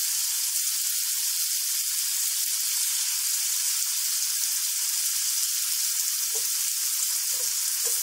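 Chicken tikka pieces and sliced tomatoes sizzling steadily in hot oil on a flat iron tawa griddle.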